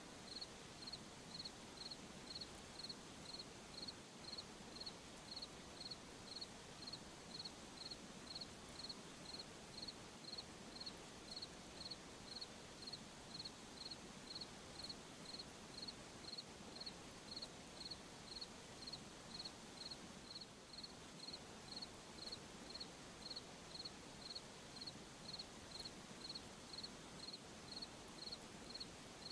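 Cricket chirping steadily in a faint night insect chorus. The high chirps repeat evenly, a little under two a second, over a fainter, higher insect hiss.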